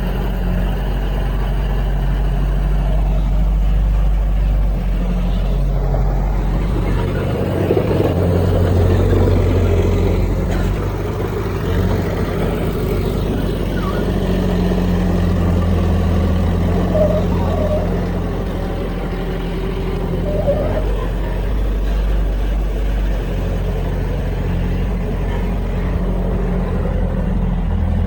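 Heavy diesel engines of earthmoving machines running steadily, their pitch and load rising and falling a little as they work.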